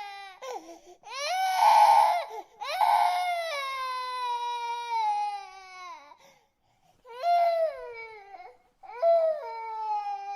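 Infant crying in repeated wails, each falling in pitch, the loudest and most strained about two seconds in, with a long drawn-out wail after it and a short pause about two thirds through before shorter cries resume.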